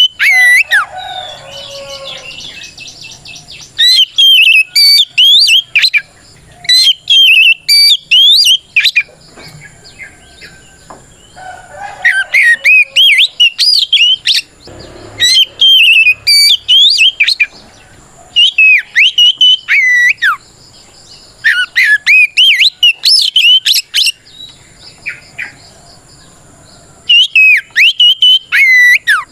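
Oriental magpie-robin singing loudly in repeated bouts of rapid, sweeping whistled phrases, with short pauses between bouts. This is the full-voiced 'ngeplong' song that a kacer uses to call out a rival.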